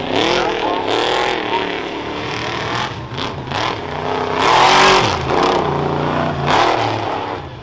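Modified 2005 Chevy Colorado four-wheel-drive rough truck's engine revving hard, its pitch climbing and dropping again and again with the throttle. The loudest burst comes about five seconds in.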